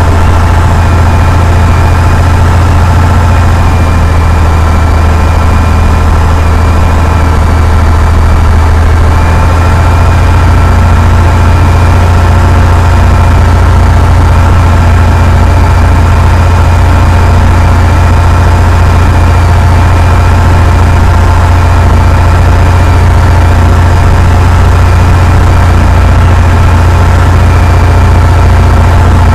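Cessna 172's piston engine and propeller running steadily with a constant low drone.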